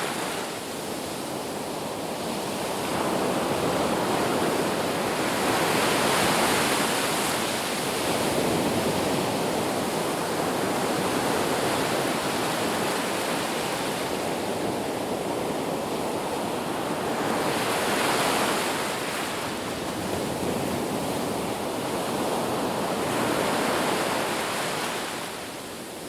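Ocean surf washing onto a beach: a continuous rush of breaking waves that swells and ebbs every few seconds.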